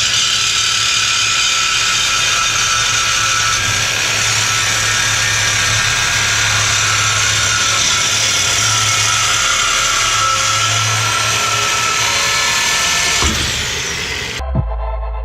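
Power cutting tool running steadily as it cuts through the exhaust pipe to remove the mid mufflers, its pitch sinking slightly under load. It stops with a knock, and electronic music with low beats starts near the end.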